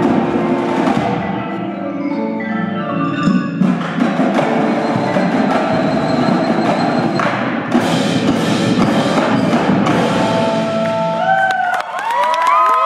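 Indoor drumline and front ensemble playing: drums together with marimbas and other mallet keyboards, with a descending mallet run about two to three seconds in. Near the end, sliding whistles from the audience begin as the piece winds down.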